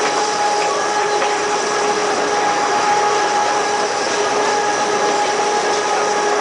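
The Corcovado electric rack railway train climbing the mountain, heard from on board: a steady running noise with a steady whine held throughout.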